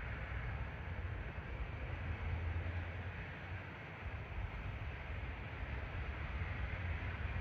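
Wind buffeting the microphone with a steady, distant jet-engine roar from airliners around the airport, dipping slightly midway.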